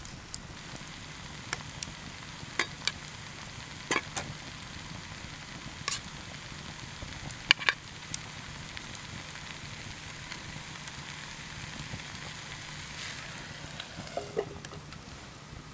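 Food frying in a pan over a campfire: a steady sizzle with scattered sharp pops and crackles, the loudest about seven and a half seconds in.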